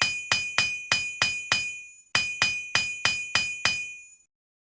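Hammer striking a steel anvil in two quick runs of blows, about three a second with a short pause between, each blow leaving the anvil ringing at the same clear high pitch.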